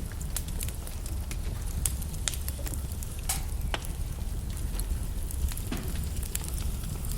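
Wood logs burning in a fireplace, crackling with many irregular sharp pops over a steady low rumble.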